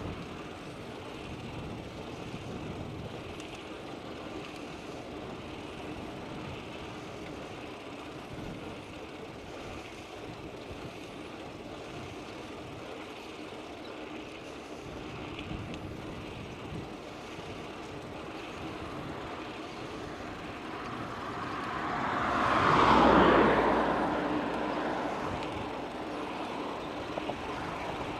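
Steady outdoor background noise, then a motor vehicle passing close by near the end, rising to a peak and fading away over a few seconds.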